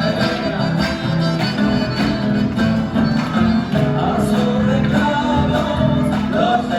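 Live Argentine chacarera folk music: strummed guitar in a steady rhythm with singing, a wavering melody line coming in about four seconds in.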